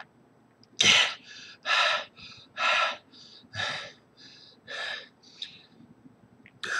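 A man gasping and breathing hard, one heavy breath roughly every second, growing fainter: he is out of breath after chugging most of a bottle of tequila.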